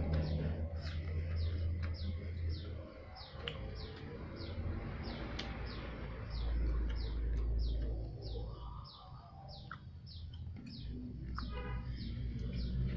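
A bird chirping over and over in short falling chirps, about two a second, over a low rumble.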